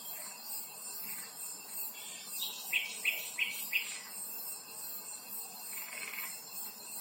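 Outdoor woodland ambience: birds calling, with a quick run of about four short notes a few seconds in, over a steady high chirring of insects.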